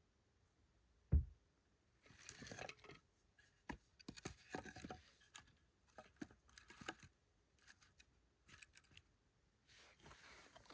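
Close handling noises: a single low thump about a second in, then scattered clicks, scrapes and rustling.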